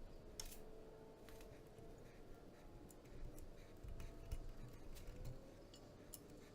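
Faint scattered clicks and a few soft knocks of hand tools and small metal parts being handled, over quiet room tone.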